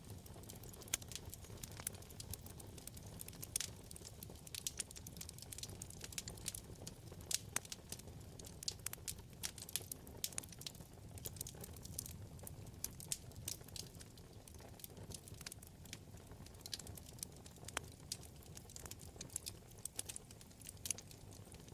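Wood fire crackling: many sharp pops and snaps, several a second and irregular, over the soft low rumble of the burning flames.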